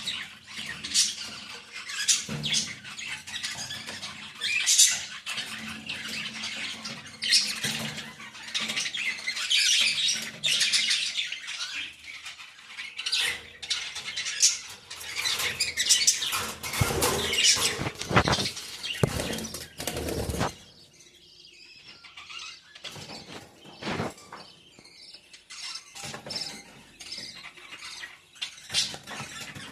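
A flock of caged pet birds chirping and calling, with bursts of wing flapping. The chatter is dense and busy, then thins to scattered calls about two-thirds of the way through.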